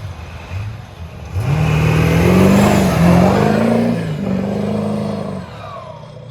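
Truck engine revving hard under acceleration, rising in about a second and a half in, its pitch climbing and dipping with the throttle for a few seconds, then easing off and fading near the end.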